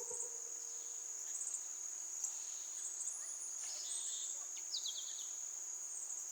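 Crickets trilling steadily at a high pitch as evening forest ambience, with a few short bird chirps about four to five seconds in. The last notes of a music track fade out in the first second.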